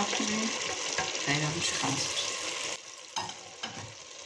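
Fried eggplant slices, onions and tomato sizzling in a steel pot: a steady frying hiss that drops to a quieter level about three seconds in.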